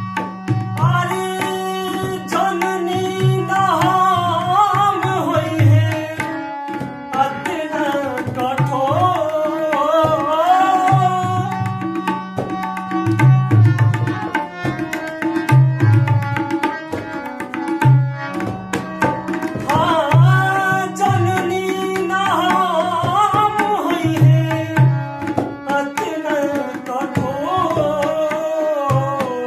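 Indian folk music: a tabla playing a steady rhythm under an ornamented melody that slides and wavers in pitch, with short breaks in the melody.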